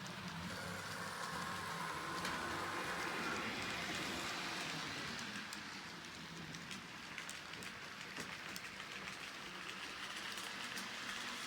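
Model train running on the layout's track: a steady rolling hiss of small wheels on rail with faint clicks, and a faint whine in the first few seconds.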